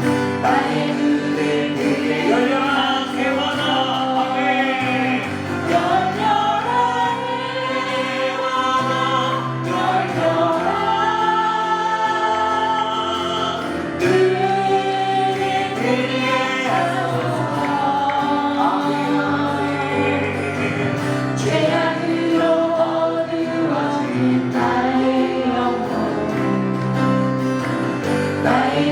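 Christian worship song sung by a group of voices over instrumental accompaniment, sustained sung lines over steady low chords.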